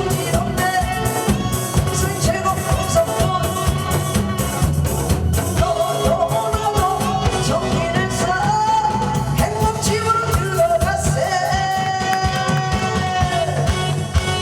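Live singing over amplified backing music with a steady beat, the voice holding long notes about two-thirds of the way through and again near the end.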